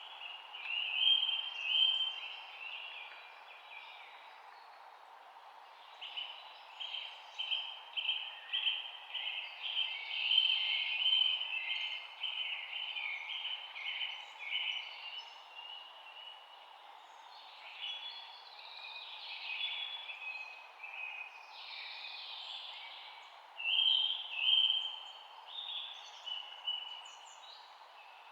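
Several songbirds chirping and singing in short, repeated phrases, busiest in bursts, over a steady background hiss.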